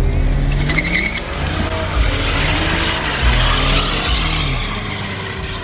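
Car doing a burnout: the engine is revved up and down several times, about once a second, over the hiss and squeal of spinning tyres.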